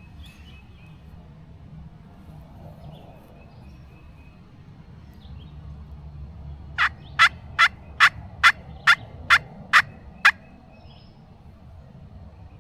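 A series of nine turkey yelps, sharp and raspy, evenly spaced about half a second apart, loud and close. Before and after them there is only a quiet outdoor background.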